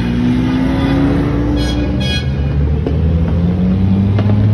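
Ferrari sports cars driving past on the track, their engines running together, with one engine note rising as a car accelerates over the first couple of seconds.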